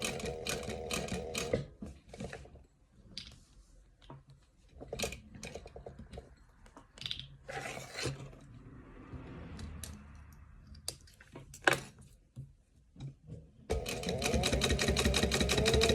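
Sewing machine stitching a name tag onto a dog collar in two short runs: a fast, even train of stitches for about the first second and a half, then again near the end. In between come scattered clicks and rustling as the collar is handled and lined up.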